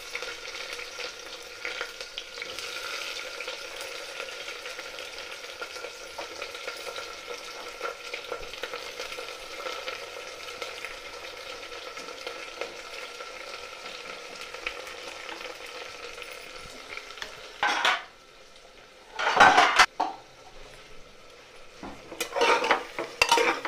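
Sliced onions frying in hot oil in a pressure cooker, with a steady sizzle. Near the end the sizzle briefly drops away, and a steel spatula knocks and scrapes against the pot a few times as the onions are stirred.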